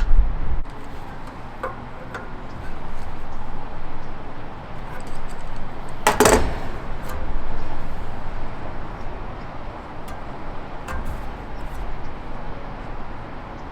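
Handling noises from work with hand tools and small parts: scattered small clicks and knocks, with one brief, loud clatter about six seconds in.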